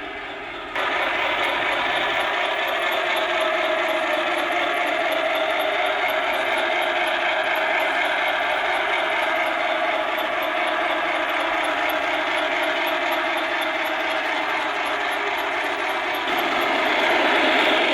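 O gauge model train running on track, a steady mechanical whir and rattle from its motor and wheels, with a faint regular high ticking. It starts abruptly about a second in and grows slightly louder near the end.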